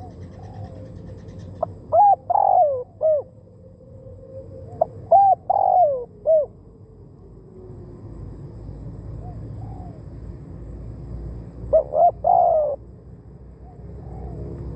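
Spotted dove cooing: three phrases of a few notes each, the first about two seconds in, the second around five to six seconds in, and the third near the end.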